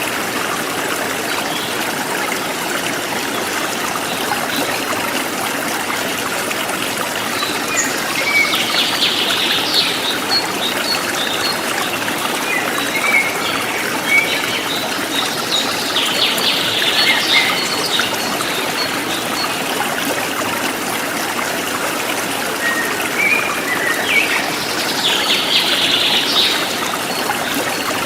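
A forest stream trickling and rushing steadily over rocks, with birds chirping in short bursts of song several times.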